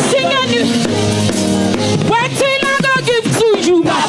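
Live gospel praise music: a band with drum kit and keyboard chords behind a wavering sung vocal line.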